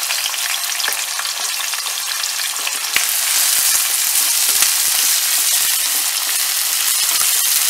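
Chopped onions, cashews and bay leaves sizzling in hot oil in a metal kadai, stirred with a wooden spatula that scrapes and knocks against the pan. The sizzle gets louder about three seconds in.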